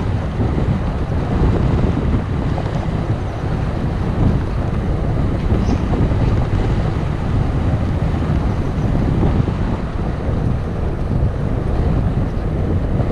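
Wind buffeting the microphone during a bicycle ride: a loud, steady rumble.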